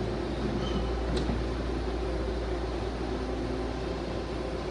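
BART train car humming steadily at the platform, beginning to roll near the end. One sharp click about a second in.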